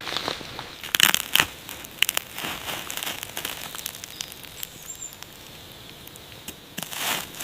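Fire crackling, with irregular sharp pops, the loudest about a second in.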